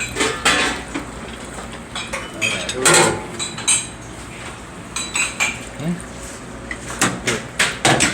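Irregular metallic clinks and knocks of metal parts and tools being handled while a drop-in ice cream freezer unit is worked loose by hand, with a louder knock about three seconds in and a quick run of knocks near the end.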